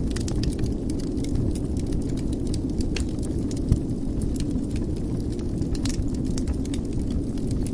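Wood fire in a fireplace crackling, with scattered sharp pops over a steady low rumble of the flames; one louder pop about halfway through.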